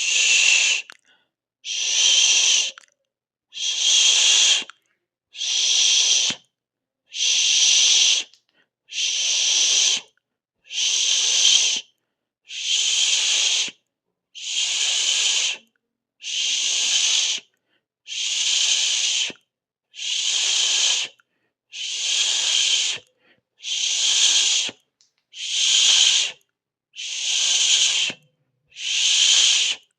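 A sibilant 'sss' hiss, repeated at an even pace of about one every two seconds. Each hiss lasts about a second, with silence between.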